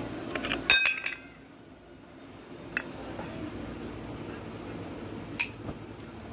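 Glass and tableware clinking: a quick run of ringing clinks about a second in, then two single clinks a couple of seconds apart.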